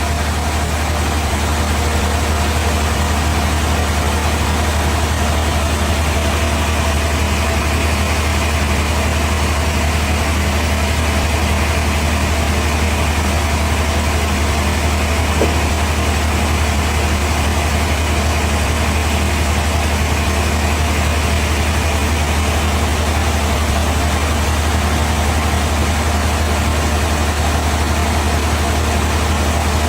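Bandsaw sawmill machinery running steadily, a constant low engine hum that holds level throughout.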